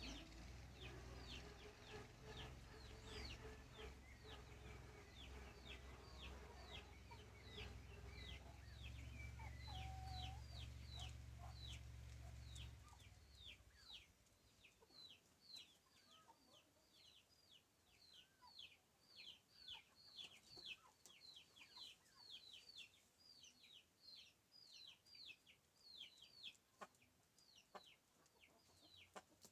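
Chicks peeping: a steady run of short, high, falling peeps, about two a second. A low hum runs underneath and stops about 13 seconds in.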